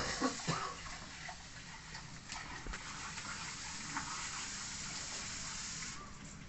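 Cooking at a pot: a few knocks, then a steady hiss for about four seconds that stops shortly before the end.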